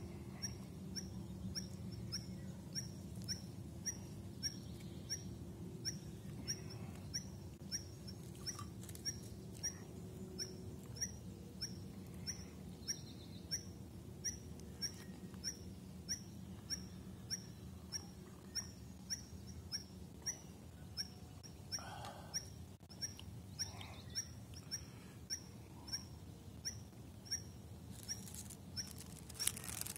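A bird repeating one short high chirp about twice a second, with fainter lower notes between, over a low steady background noise. A brief rustle near the end.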